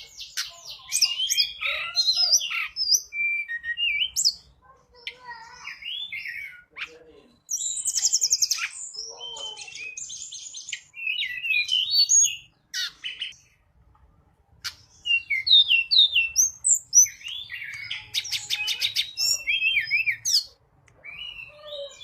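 Tledekan gunung song used as a lure call: a rapid, varied run of high chirps, whistles and buzzy trills in bursts, broken by short pauses.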